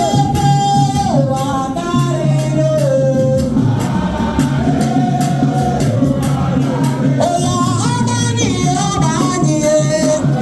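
Music with singing: a lead voice carries a melody that slides between notes over a steady low drone, with other voices and light percussion keeping a beat.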